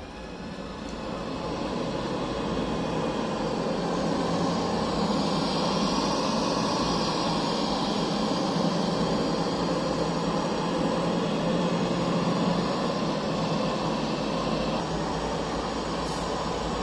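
Puppyoo R6 robot vacuum starting a cleaning run, its suction fan and brushes running with a steady hum that builds up over the first couple of seconds.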